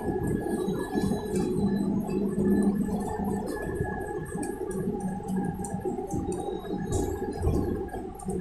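Inside a moving electric bus: the traction motor's steady whine over road and tyre rumble, with light rattling clicks from the cabin.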